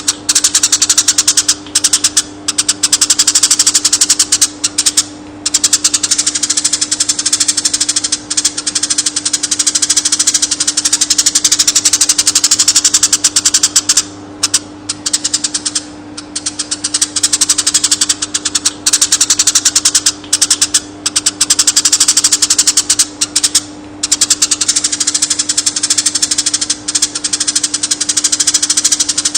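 Konin bird singing a fast, continuous chattering trill: a rapid run of high chirps that sweeps up and down in pitch, with a few brief pauses, over a steady low hum.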